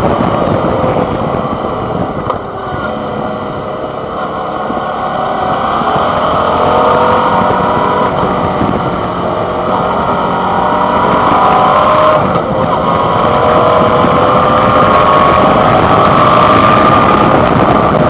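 Suzuki DL650 V-Strom XT's 645 cc V-twin engine under way, heard through a handlebar-mounted microphone. It eases off for the first few seconds, then pulls up through the revs, with a short dip about twelve seconds in like a gear change, and afterwards runs higher and louder.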